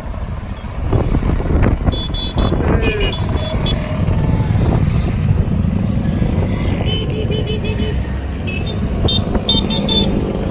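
Motorcycle engines running with a heavy, steady low rumble. Short high-pitched chirps sound over it several times.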